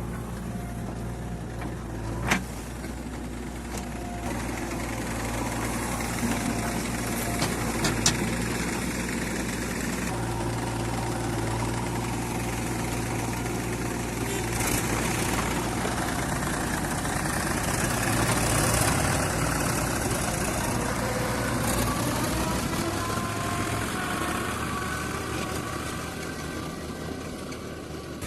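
Diesel engine of a JCB 3DX backhoe loader running as it works, with its pitch climbing from about two-thirds of the way in. Two sharp knocks sound in the first third.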